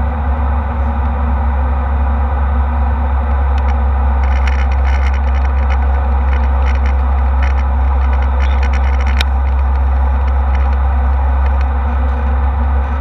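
Steady jet engine and airflow drone inside the passenger cabin of an Embraer E190 airliner, with a strong deep rumble underneath. Faint light rattles come and go in the middle.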